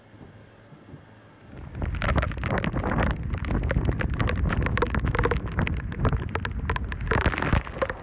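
Hurricane wind and driving rain buffeting the microphone: from about a second and a half in, a loud gusting rumble packed with sharp crackling hits. It cuts off suddenly just before the end.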